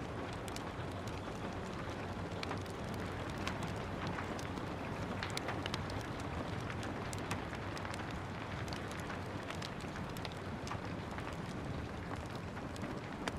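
Steady rain falling as an even hiss, with a wood fire crackling in a fireplace: frequent short, sharp pops scattered irregularly over the rain.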